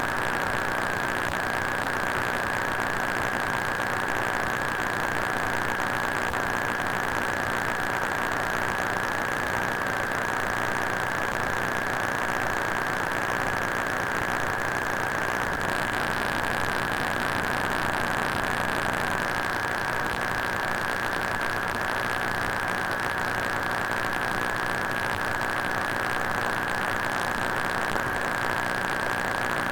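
Steady electronic static hiss with a constant high-pitched whine running through it: a looped sound effect imitating a broken, malfunctioning screen or electronic device.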